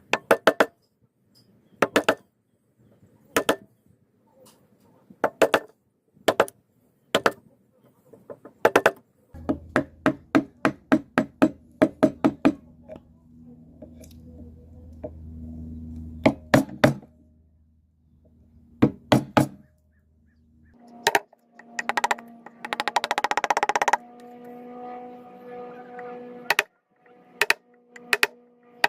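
Repeated sharp knocks of wood being struck, as in joinery pieces being tapped together with a mallet. The knocks come singly and in quick runs, with a low steady hum under them in the middle and a short hiss of noise later on.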